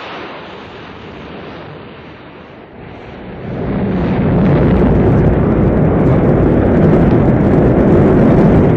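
Rocket launch roar: a deep rumbling noise that starts abruptly and grows louder about three and a half seconds in, then holds steady.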